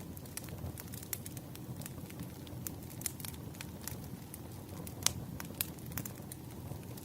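Wood fire crackling: irregular sharp pops and snaps over a low steady rumble, with one louder pop about five seconds in.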